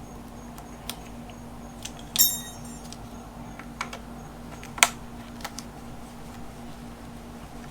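Scattered metallic clicks and clinks of pliers working heater-hose fittings off an LS engine: one ringing metal clink about two seconds in and a sharp click near five seconds, over a steady low hum.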